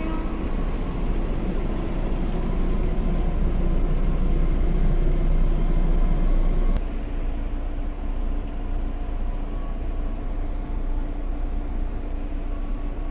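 Cabin noise inside an electric commuter train: a steady low rumble and rush of the running train, slowly growing louder. About seven seconds in it cuts off abruptly to a quieter, steadier hum with a faint steady whine.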